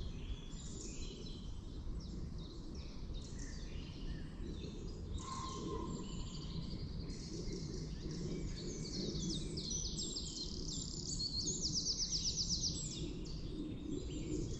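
Several woodland birds singing at once in the morning: overlapping short chirps and whistles, with a rapid trill of quickly repeated notes about twelve seconds in, over a steady low rumble.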